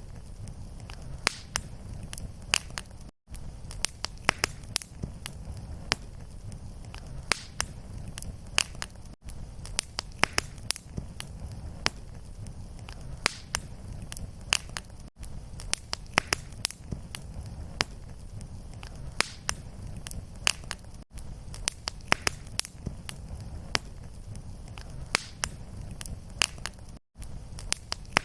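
Fireplace fire crackling: irregular sharp pops and snaps over a low steady rumble. A brief silent gap comes about every six seconds where the short recording loops.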